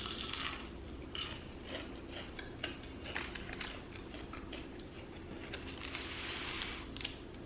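Close-miked chewing and biting of fried fast food. Scattered sharp crunches come through the first few seconds, and a denser spell of crunchy chewing comes near the end.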